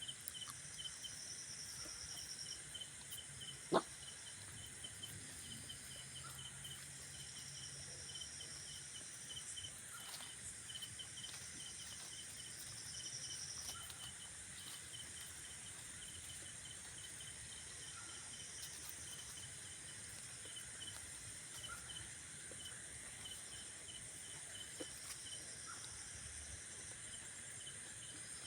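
Faint insects chirping: a steady run of rapid high chirps under a higher buzzing drone that swells and fades every few seconds. A single sharp click about four seconds in.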